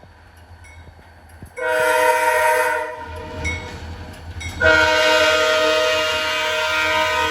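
Diesel locomotive air horn sounding a chord in two blasts: a blast of a bit over a second, a short pause with the locomotive's low rumble, then a long blast that is still going at the end. It is the kind of horn pattern blown for a grade crossing.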